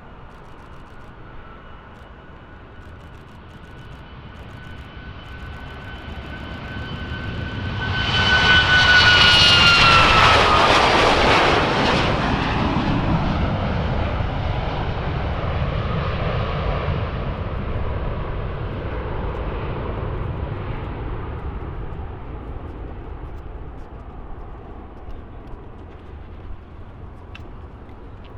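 Departing aircraft's engines passing by: a whine and rumble that build up, peak about nine seconds in with the whine dropping in pitch as the aircraft passes, then a long fading rumble.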